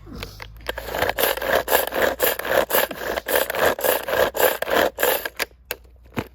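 Rhythmic scraping strokes, about three to four a second, starting about a second in and stopping shortly before the end.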